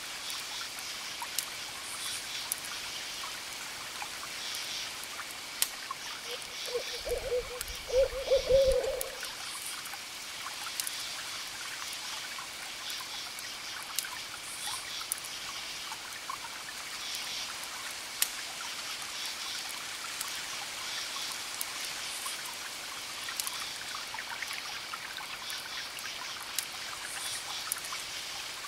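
Wood fire crackling, with scattered sharp pops over a steady hiss. An owl hoots a few times between about six and nine seconds in, the loudest sound in the mix.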